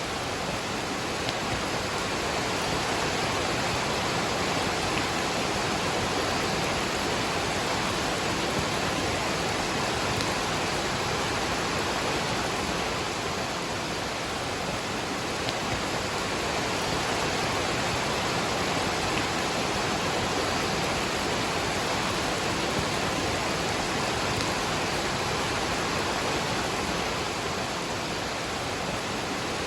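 Waterfall and rain: a steady, even rush of falling water.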